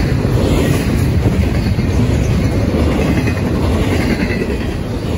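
Double-stack intermodal freight train's loaded well cars rolling past: a steady loud rumble and clatter of steel wheels over the rail joints.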